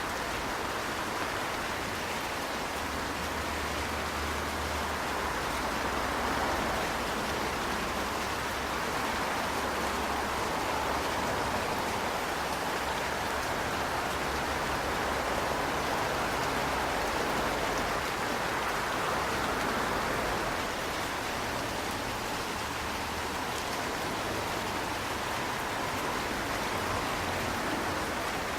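Steady rain falling, an even soft hiss with no single drops standing out.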